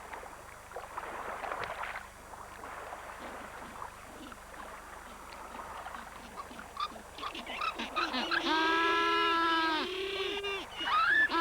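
Galapagos penguins calling: two long, loud, steady-pitched calls, the first about eight seconds in and the second starting near the end, over a faint background of water noise.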